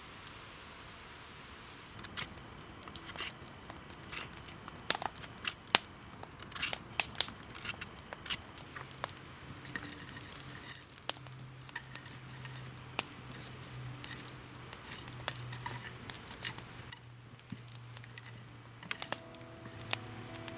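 Dry wood and twigs being handled: irregular snapping, crackling and tearing that starts about two seconds in and goes on throughout. A low steady hum joins from about nine seconds in.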